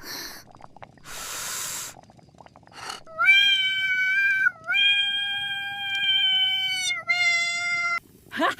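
Cat crying in long, drawn-out meows: three held wails on a steady pitch, the middle one over two seconds long. A short burst of hiss comes about a second in, before the wails.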